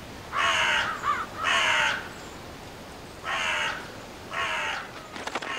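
A bird cawing: four harsh calls of about half a second each, in two pairs, over a faint steady hiss.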